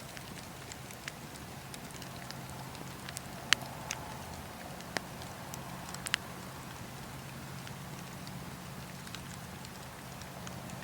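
Wood fire burning in a fireplace: a steady low rush of flame with scattered sharp crackles and pops, the loudest pops about three and a half, five and six seconds in.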